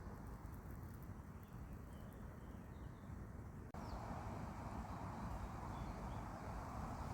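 Outdoor countryside ambience: a steady rustling background noise with faint, short bird chirps. The sound cuts abruptly a little past halfway and becomes louder.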